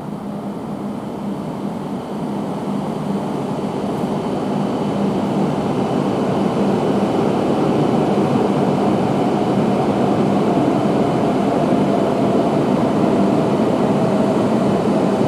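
Tohoku Shinkansen train approaching along the platform: rushing rolling noise with a steady hum grows louder over the first several seconds, then holds steady and loud.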